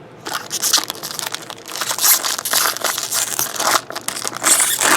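Foil wrapper of a trading-card pack being torn open and crumpled: a continuous crinkling crackle, loudest around two seconds in and again near the end.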